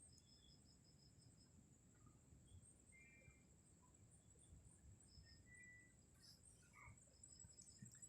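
Near silence with a faint, steady, high-pitched insect trill, typical of crickets, and a few short chirps scattered through it.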